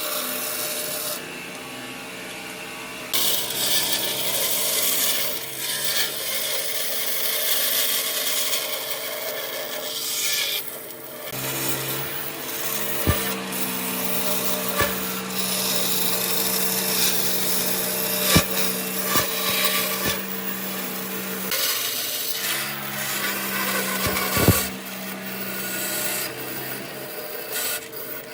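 A power tool working wood: a dense rasping, rubbing noise over a steady motor hum that cuts out and comes back a few times, with a few sharp knocks.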